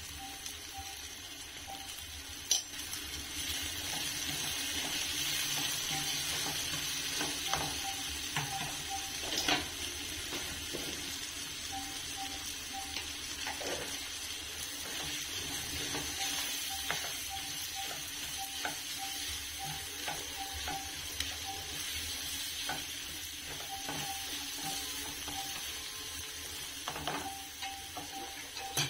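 Chopped onions, tomatoes and green chillies sizzling steadily as they fry in oil in a nonstick kadai, with a spatula stirring and now and then clicking against the pan.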